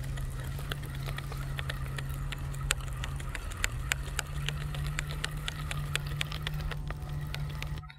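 A steady low motor hum that steps up slightly in pitch about three and a half seconds in, with scattered light ticks.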